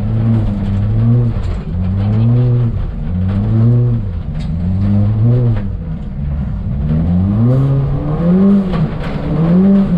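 Ford Fiesta ST rally car's engine revving up and falling back again and again on a rallycross run, as the driver accelerates and lifts between corners.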